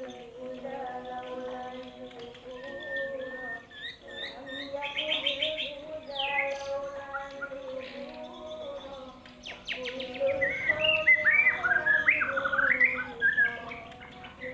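Songbirds chirping and singing in quick trills and sweeping whistled phrases, loudest in two spells: one about four seconds in and a longer one from about ten seconds, over a steady held drone.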